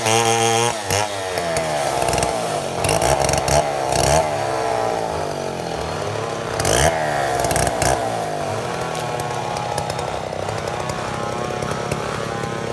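Chainsaw engine running while milling a mahogany log. Its pitch rises and falls repeatedly, then holds steadier over the last few seconds.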